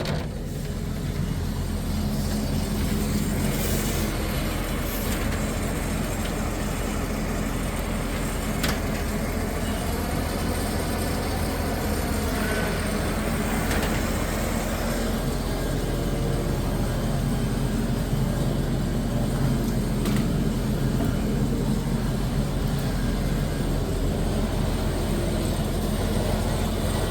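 Tree chipper's engine running steadily with a low, even drone.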